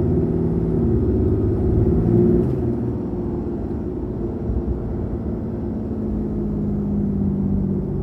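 Ram 2500's 6.7-litre Cummins inline-six turbo-diesel running on its stock intake as the truck drives, heard from inside the cab with the windows up. Its note shifts about two and a half seconds in, then settles into a steady drone.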